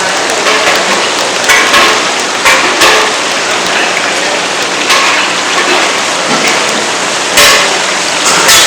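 Elephant foot yam pieces frying in hot oil: a steady sizzle with louder crackles now and then.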